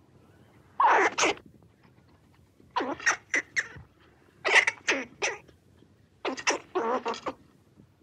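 Squirrel calling in short chattering calls. They come in four quick clusters spaced about one and a half to two seconds apart.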